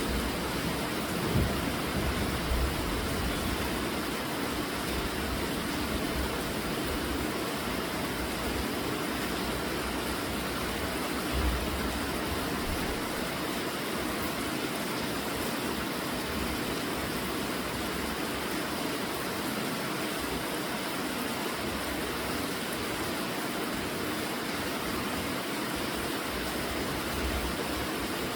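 Steady rainfall, an even hiss, with a few brief low rumbles in the first few seconds and again about eleven seconds in.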